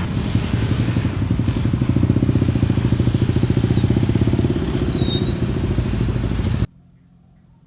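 Motorbike engine running with a steady, rapid low pulsing, stopping abruptly near the end.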